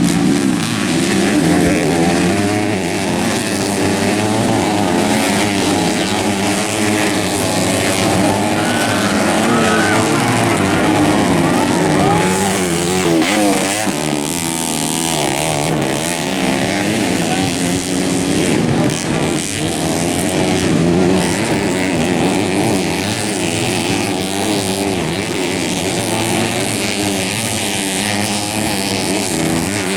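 Several racing dirt-bike engines running together, their pitch rising and falling over and over as the riders open and close the throttle.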